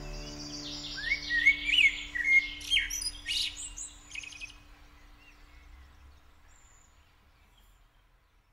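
A songbird sings a quick run of chirps and whistles, some rising, over the last note of the music, then fades out to near silence.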